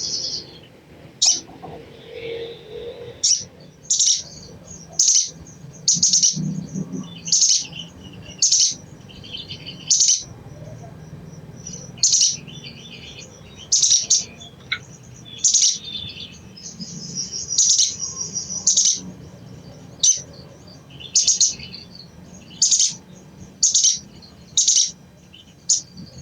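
Sogon (sogok ontong) bird giving sharp, high chipping calls, repeated about once a second, with a longer chattering run about two-thirds of the way through.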